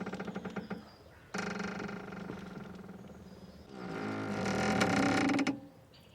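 Boat rope creaking and squeaking as the boat shifts. A stuttering creak at the start, a new creak starting suddenly just over a second in and fading, then a louder, longer creak with wavering pitch from about four seconds in that stops abruptly near the end.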